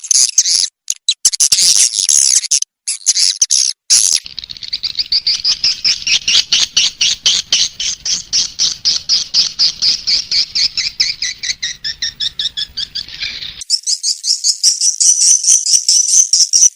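Recorded swiftlet calls used as a lure sound: rapid trains of short, high chirps, several a second. The chirp pattern changes abruptly about four seconds in and again near the end, as segments of the recording switch.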